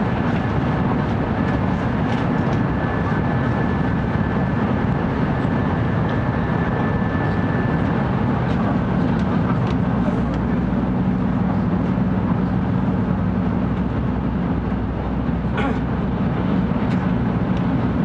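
Steady running noise of a 700 series Shinkansen at speed, heard from inside a passenger car: a dense rumble of wheels, track and air. A thin high whine runs through the first half, and a low hum comes in later.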